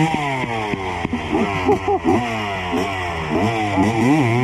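Dirt bike engine revving in quick throttle blips, its pitch rising and falling over and over, several times a second.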